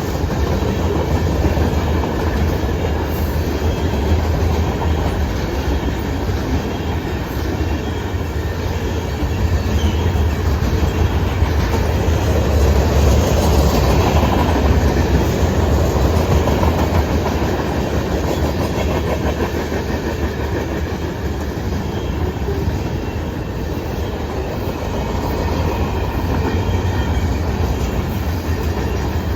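Cars of a Norfolk Southern manifest freight train rolling past, a steady low rumble of steel wheels on the rails that grows a little louder about halfway through.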